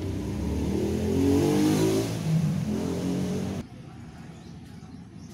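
A motor vehicle's engine revving, its pitch wavering up and down, then cutting off suddenly about three and a half seconds in, leaving a quieter low hum.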